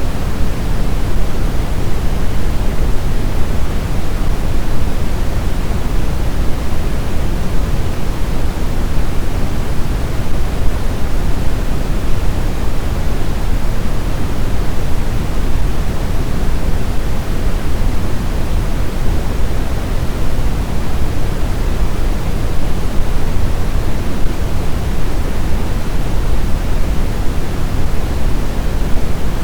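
Snowstorm wind: a loud, steady rushing noise, deep and heavy at the low end, with no distinct gusts, howls or other events.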